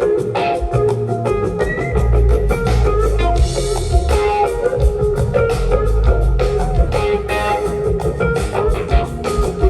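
Live rock band playing: electric guitar lines over a steady drum-kit beat and bass guitar, with a cymbal wash a few seconds in.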